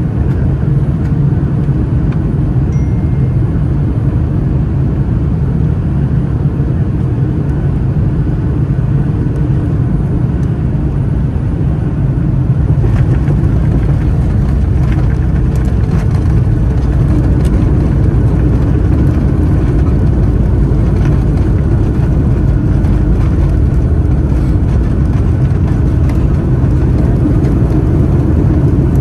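Inside the cabin of a Boeing 757-200 during its landing: a steady, loud rumble of the engines and airflow. About 13 s in it grows louder and fuller, with a few brief knocks and rattles, and it rises again a few seconds later.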